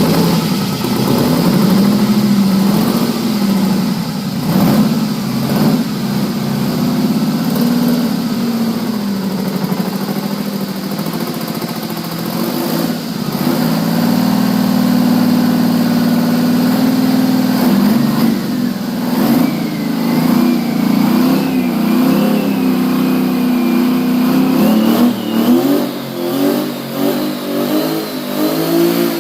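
Detroit Diesel 12V71 two-stroke V12 diesel with twin turbochargers, running and being revved up and down. A high whine climbs in pitch through the last third, and there are quick short blips near the end.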